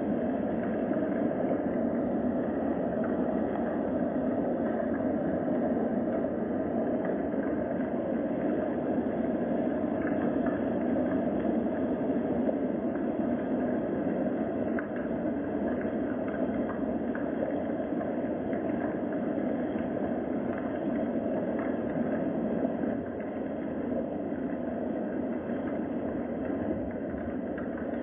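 Steady rain, an even noise with faint scattered drop ticks.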